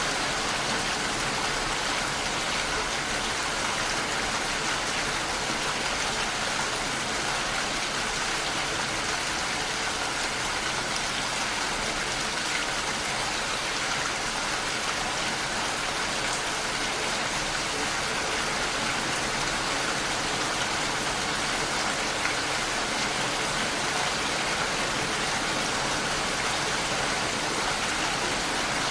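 Steady rain against a window, an even, unbroken hiss of drops.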